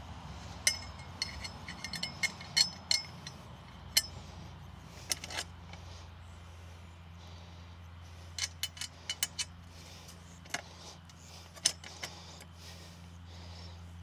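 Metal parts of a non-penetrating roof mount frame clinking together as the legs and bolts are handled and lined up. The sharp ringing clinks come in a quick cluster in the first few seconds and another around the middle, with a few single clinks later.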